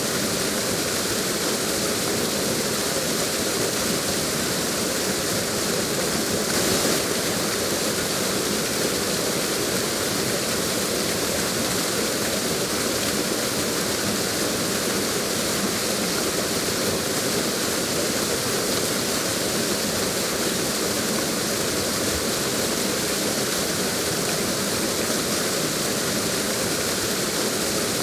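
Steady rushing of falling water, a waterfall pouring continuously with no other events.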